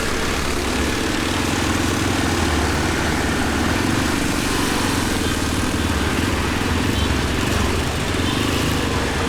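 Motorcycle engine running steadily at an even pitch while being ridden, with road noise.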